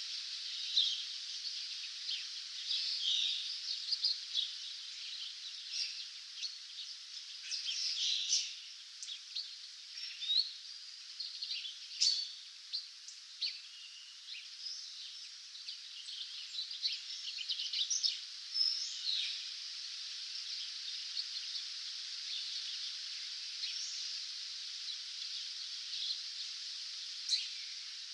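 A dawn chorus of songbirds: many short chirps, quick whistled glides and trills from several birds, over a steady high hiss.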